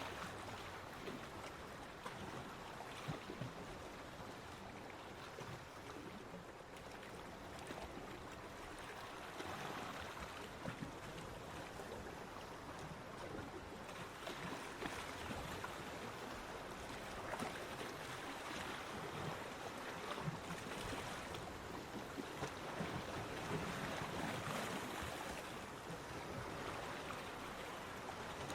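Sea waves washing onto a beach: a steady rush of surf that swells and eases as each wave comes in and draws back.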